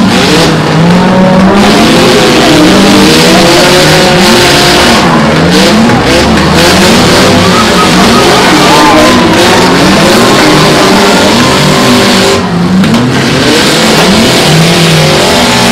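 Several small demolition derby cars with their engines revving hard, many engine pitches rising and falling over one another at once, as the cars shove against each other with wheels spinning in the dirt. The din dips briefly about twelve seconds in.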